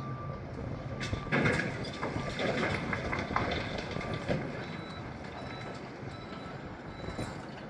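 Diesel construction machinery running with a steady low hum, a reversing alarm beeping about once a second at the start. About a second in, a loud rattling clatter lasts about three seconds, then the engine hum carries on.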